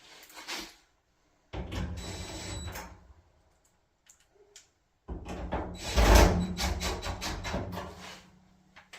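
Cordless impact driver running screws into the dryer's sheet-metal panel in two short runs. The trigger is feathered, so the motor speeds up and slows down, and the second run is longer with the rattle of the impact hammering.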